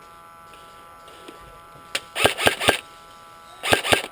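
Airsoft gun firing a few quick shots: three sharp cracks a quarter-second apart just past halfway, then two more near the end. Under them runs a steady faint electrical whine.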